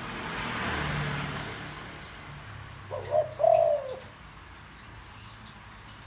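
A spotted dove coos once, about three seconds in: a short note followed by a longer, slightly falling note. It is a deep-voiced call of the kind used to stir a young male dove into cooing.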